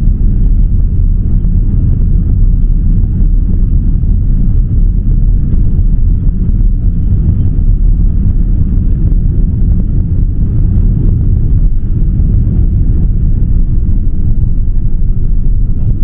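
Boeing 787-9 jet engines at takeoff thrust, heard inside the cabin as a loud, steady low rumble during the takeoff and initial climb.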